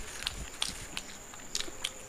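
Two people chewing and biting into egg rolls, with scattered small clicks of uneven spacing, several a second.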